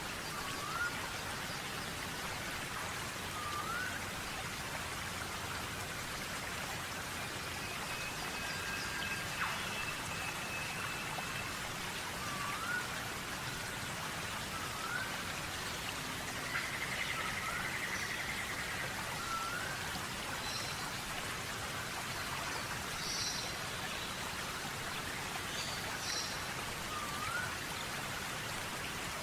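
Steady hiss with birds calling over it: a short rising call repeated about a dozen times, a few higher chirps, one held whistle and one brief trill.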